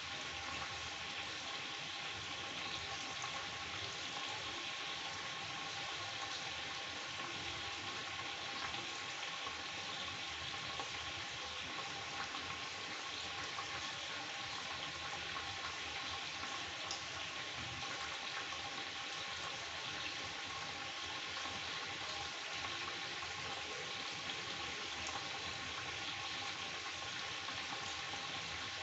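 Chicken pieces sizzling and bubbling in their own juices in a kadhai, a steady frying sound.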